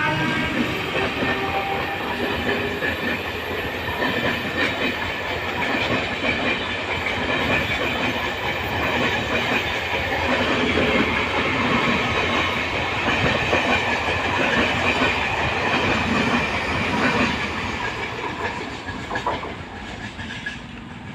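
A MEMU electric local train running on the tracks, a steady rumble with wheel clatter on the rails, fading away over the last few seconds.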